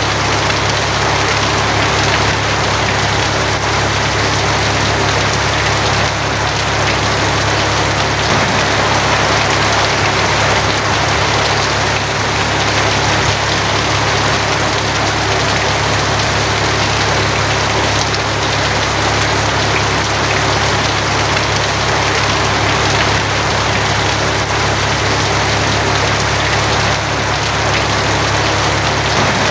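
Steady heavy rain pattering on a tin roof, an even, dense hiss with a steady low hum beneath it.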